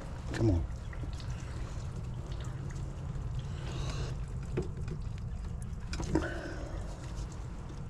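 Gas furnace running with a steady low rumble, and a few knocks and clicks: one about half a second in, others around four and a half and six seconds in.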